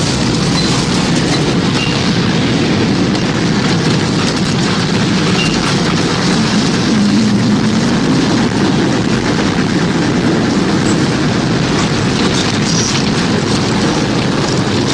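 Tornado wind sound effect: a steady, loud rumble and rush of wind, heaviest in the low range, with no breaks or pauses.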